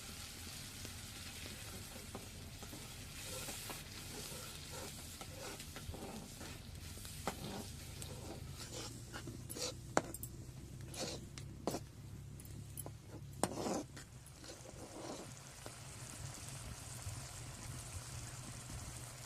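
Food frying in hot oil in a pan with a steady sizzle. From about a third of the way in to about three quarters, a cooking utensil knocks and scrapes against the pan several times.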